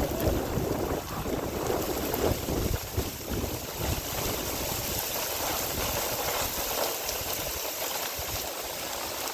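Steady rushing noise of heavy rain and wind, with gusts buffeting the microphone in the first few seconds.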